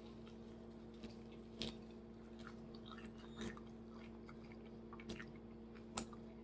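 Chewing of burnt fried chicken close to the microphone, with a few sharp crunches, over a steady low electrical hum.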